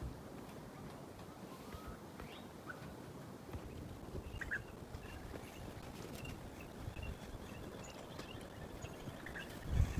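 Quiet outdoor ambience with a few faint, short bird chirps scattered through it.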